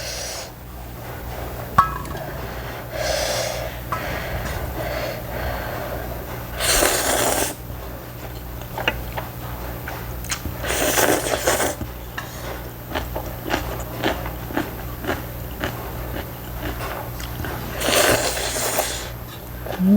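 Close-miked eating of spicy ramyun noodles: three long slurps about 7, 11 and 18 seconds in, with chewing and light clicks of utensils against the bowl between them.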